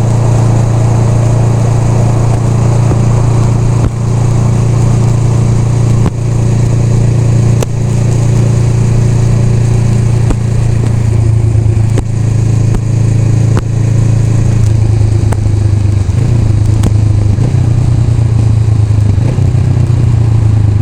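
Honda Rebel 500's parallel-twin engine running steadily, its pitch shifting slightly up and down in the second half.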